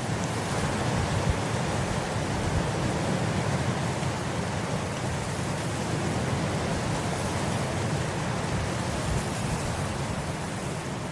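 Wind blowing across grass: a steady rushing noise, heaviest in the low range, swelling a little in the first couple of seconds and easing slightly near the end.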